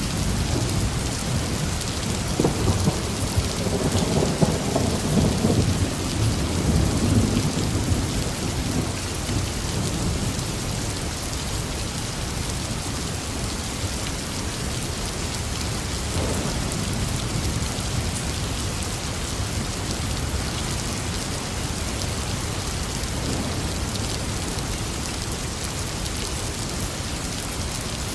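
Steady heavy rainfall with a low rolling rumble of thunder from about two to nine seconds in, and a fainter rumble of thunder around sixteen seconds.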